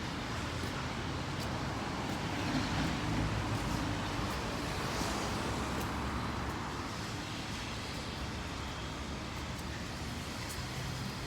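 City road traffic: cars and other vehicles running past on a wet road, a steady wash of engine and tyre noise that swells as a vehicle passes about two to four seconds in.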